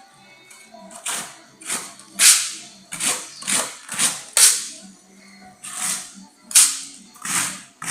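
A steel trowel scraping decorative plaster across a wall in repeated strokes, about two a second, with a short pause near the middle.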